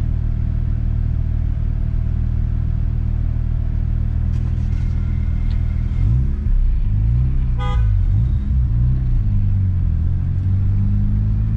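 1992 Mazda RX-7 FD's twin-turbo 13B rotary engine heard from inside the cabin, idling steadily, then revving and pulling away with the pitch rising and falling about six seconds in. A brief car horn toot sounds about eight seconds in.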